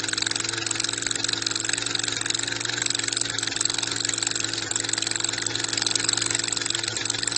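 Engine of a portable soil core drilling machine running steadily at a constant speed, with no change in pitch.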